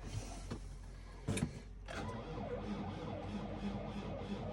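New Holland diesel tractor engine being cranked by its starter in deep cold, with a loud clunk a little over a second in, then turning over in a steady rhythm of about three beats a second without catching. The owner suspects the cold battery is too weak to start it.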